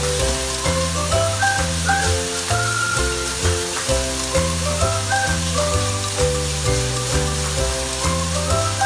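Background music with a steady bass line and melody, over the sizzle of minced meat frying as it is stirred with a spatula in a nonstick wok.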